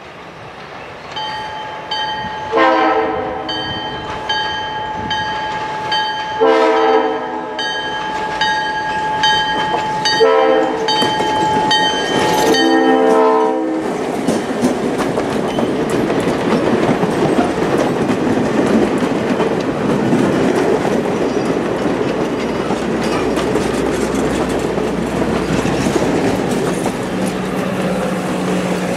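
A New Hope Railroad diesel locomotive sounds its chord horn in four blasts as it approaches, over about twelve seconds. The train then passes close by: the locomotive's engine runs and the wheels of the coaches clatter steadily along the rails.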